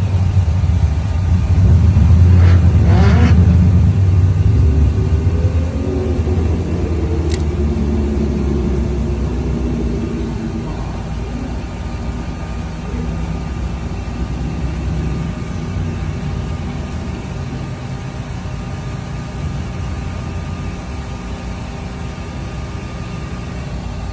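Another drag car's engine running with a loud, low rumble. It revs up briefly about two to four seconds in, then settles and slowly quietens.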